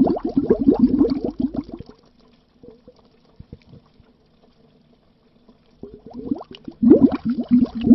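Stream of air bubbles heard underwater: quick popping blips, each rising in pitch. The bubbling stops about two seconds in, leaving only a few faint blips, then builds back up around six to seven seconds.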